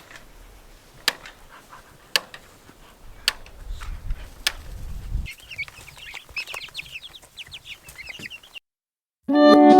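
Young meat chickens peeping in a rapid run of short high chirps, after a handful of sharp knocks spaced about a second apart. Guitar music starts right at the end.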